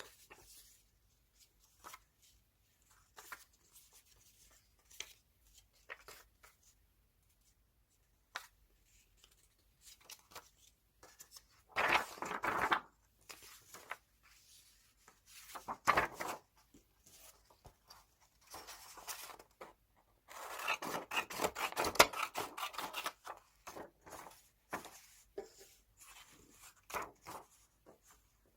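Scissors cutting magazine paper, with paper rustling and light taps in between. Louder rustles come about twelve and sixteen seconds in, and a run of quick snips about three quarters of the way through.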